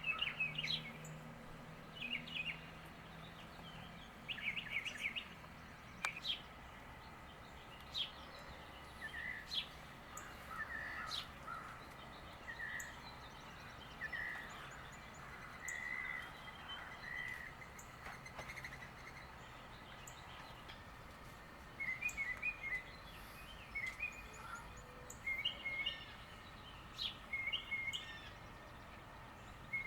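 Small birds chirping: short calls and twitters come every second or two, busier in the last third, over a faint steady background noise.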